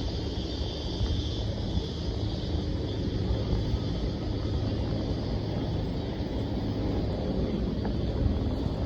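Steady low rumble of a running vehicle, with a constant low hum.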